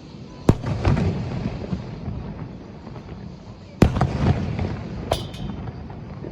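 Aerial fireworks shells bursting: two sharp booms, about half a second in and just before four seconds, each trailing off in a rumbling echo, with a couple of sharper crackling pops a little after five seconds.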